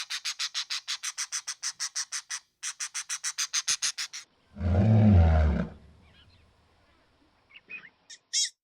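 Animal calls: two runs of rapid, even clicking pulses at about seven a second, then a single low roar about a second long, the loudest sound, and a few short high chirps near the end.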